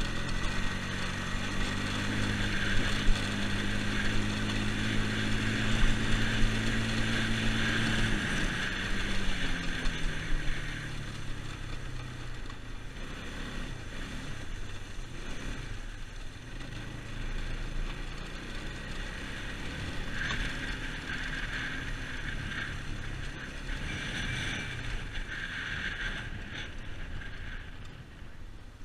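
2001 Yamaha Bear Tracker ATV's single-cylinder four-stroke engine running under way. It holds a steady speed, then falls in revs about eight seconds in as the machine slows, and carries on at lower, uneven revs with rattling from the machine.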